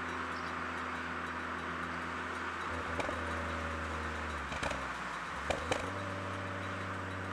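Ford Focus ST's turbocharged five-cylinder engine through a Milltek resonated exhaust, running steadily at light throttle. About four and a half seconds in the engine note drops away for roughly a second, with a few sharp clicks, then comes back at the same pitch and eases slightly lower.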